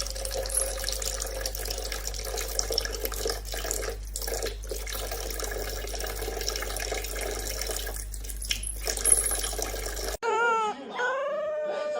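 Water running steadily, with a constant low hum underneath; it cuts off about ten seconds in.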